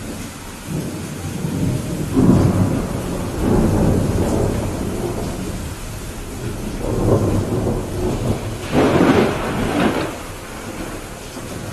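Steady rain with thunder rolling over it: low rumbles about two seconds in and again around seven seconds, then a louder, sharper crackling peal near nine seconds that dies away.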